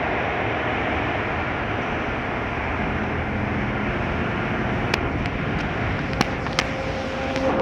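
Automatic car wash equipment running: a steady rushing noise, with a few sharp clicks in the second half.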